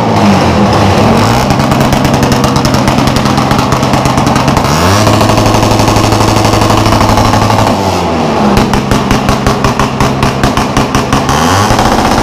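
Motorcycle engine revved loudly and held at several speeds, its pitch rising and dropping in steps. From about eight seconds in it falls to a choppy, rapid pulsing at low revs, then rises again near the end.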